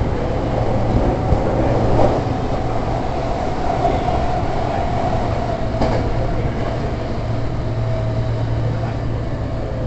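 Hankyu Railway electric train running, heard from on board: a steady rumble of wheels on rails with a low hum and a steady whine, and two sharp clicks, about two seconds in and again near six seconds.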